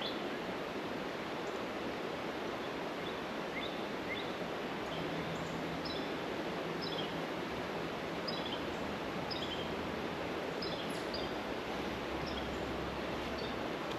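Steady rush of flowing creek water, with a bird's short high chirps repeating over it about once a second.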